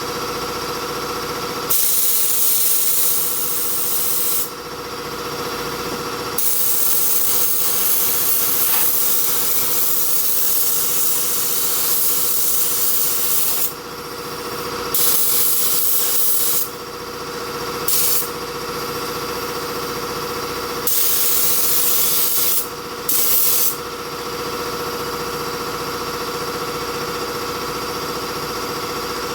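Mini touch-up spray gun spraying clear coat on an engine in about six hissing passes, from under a second to about seven seconds long, the longest starting a few seconds in. Under them runs a steady hum with a few held tones.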